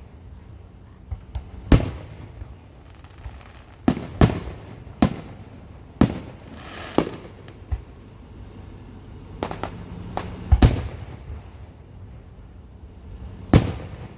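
Fireworks display: about a dozen sharp booms of bursting shells, unevenly spaced, with a brief crackling hiss after one burst around the middle and a close double bang a little past two-thirds of the way through.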